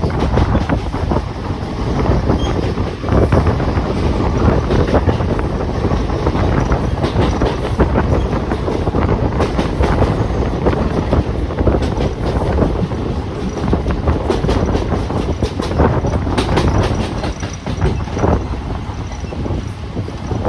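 Ride noise on board a Siemens EMU suburban local train running at speed: a steady loud rumble with wheels clacking over rail joints and points, plus wind rushing past the open doors and windows.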